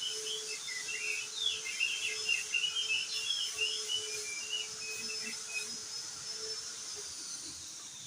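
Crested dark-eye (opior jambul) singing a fast, jumbled twittering run of short chirping notes that breaks off about six seconds in. A thin, steady, high whistle-like tone runs underneath and begins sliding down in pitch near the end, over a faint low hum.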